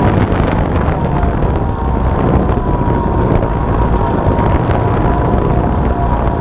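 Electric motor and propeller of an RC airplane whining steadily in flight, the pitch drifting slightly with throttle, under heavy wind rushing over the onboard GoPro's microphone.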